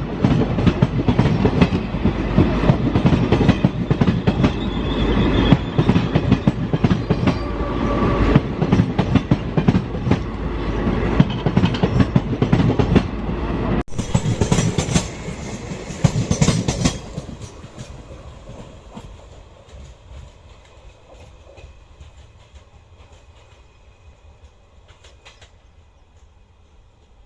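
A train running past close by, its wheels clattering rhythmically over the rail joints. About fourteen seconds in the sound breaks off abruptly, returns loud for a few seconds, then dies away to a faint rumble.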